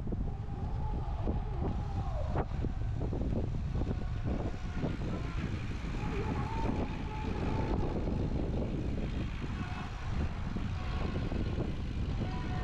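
Steady outdoor rumble of traffic and wind on the microphone.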